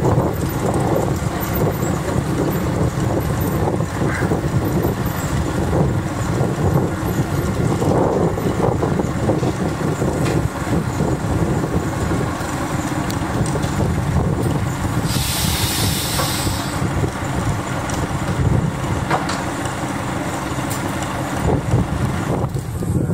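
Narrow-gauge train running with a steady rumble. A short hiss comes about fifteen seconds in.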